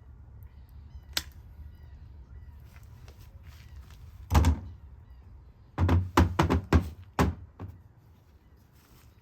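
A few dull knocks and thumps: a sharp tap about a second in, a louder thump past four seconds, then a quick run of about six thumps over a second and a half near the end.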